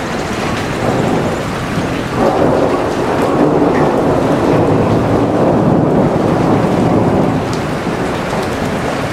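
Heavy rain falling in a dense, steady hiss. A low rolling rumble swells up about two seconds in and fades away near the end.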